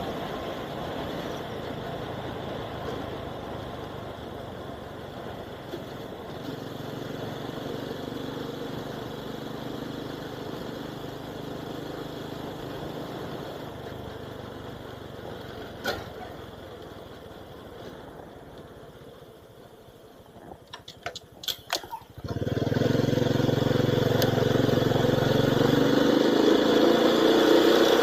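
Steady engine and road noise of a moving vehicle through an action camera's built-in microphone. The noise fades down gradually, then a few sharp clicks come about 21 seconds in. About a second later the engine and road noise come back suddenly, much louder, and hold steady to the end.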